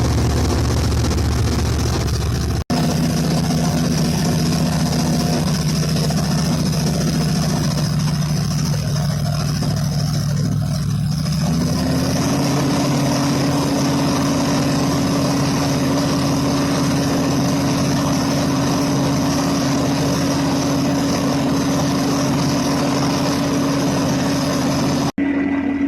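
Mercedes-Benz OM 502 LA twin-turbo V8 diesel engine running steadily. About halfway through, its speed rises quickly to a higher steady speed and holds there. The sound drops out briefly twice.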